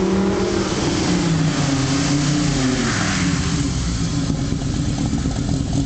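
Audi Coupe engine running hard, its note falling off over the first second and a half and then holding steady, with a burst of hiss about three seconds in.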